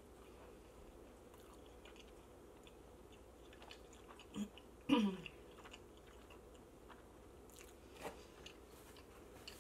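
Close-miked chewing of pizza, with soft mouth clicks and smacks. About halfway through comes a short vocal sound falling in pitch, the loudest moment.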